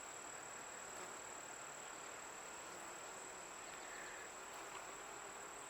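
Faint, steady buzzing of honey bees around an opened hive during a frame inspection, with a thin, steady high-pitched whine running under it.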